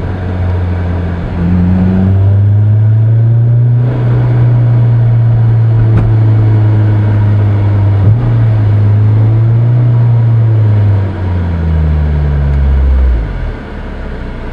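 Honda S2000's four-cylinder engine through a Milltek dual exhaust, heard from inside the cabin with the top up, holding a steady low tone while cruising. The pitch rises a little about two seconds in, then falls away and gets quieter near the end as the revs drop.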